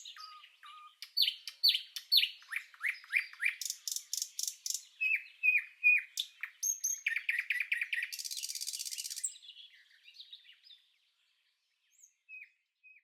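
Nightingale singing a run of varied phrases: repeated down-slurred whistles, quick rapid-fire notes, and a buzzing trill about eight seconds in. The song thins to a few faint notes near the end.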